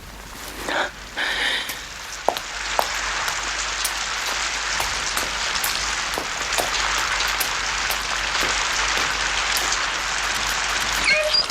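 Heavy rain pouring steadily, a dense hiss with scattered sharper drop ticks, building over the first couple of seconds and cutting off sharply near the end.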